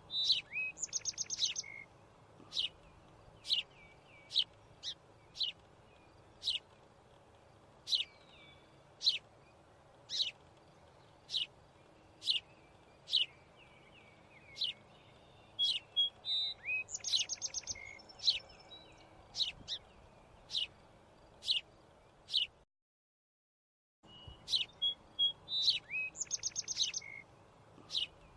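Birds chirping: short, sharp high chirps about once or twice a second, with a quick trill now and then. The sound cuts out completely for about a second and a half near the end.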